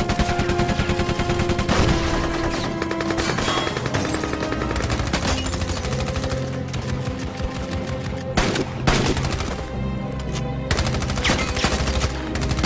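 Rapid automatic gunfire in a film action scene, shots crackling in quick succession throughout, over film-score music with sustained notes.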